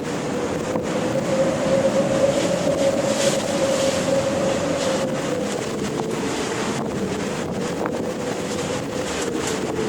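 Ocean waves and wind: a continuous rush of surf and wind with a steady droning tone that swells and rises a little in pitch in the first half.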